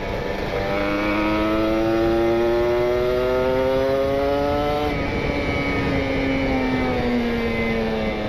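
Kawasaki Ninja 150 RR two-stroke single-cylinder engine, breathing through an R9 Neo Mugello carbon exhaust, under way: its note climbs steadily for about four seconds as the bike accelerates, then falls away as the throttle is rolled off. The PWK28 carburettor is jetted rich (pilot jet 42, main jet 132).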